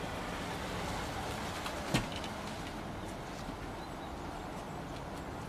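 Steady outdoor background noise, an even hiss with a low rumble, and one short sharp knock about two seconds in.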